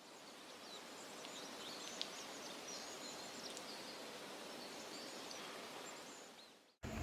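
Faint outdoor ambience: a steady hiss of background noise with small birds chirping now and then, fading in at the start and out near the end.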